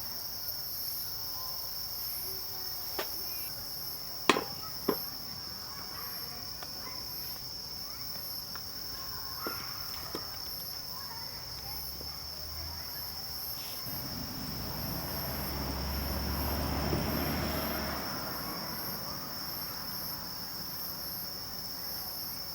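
Night chorus of crickets and other insects, a steady high trill throughout. A few sharp knocks come about four to five seconds in, and a swell of rushing noise with a low rumble rises and falls from about fourteen to eighteen seconds.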